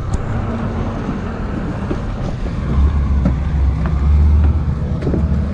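Outboard engines of a 40-foot Intrepid center console, Yamaha V8s, running as the boat departs. The low rumble grows louder about three seconds in, then eases off shortly before the sound cuts off.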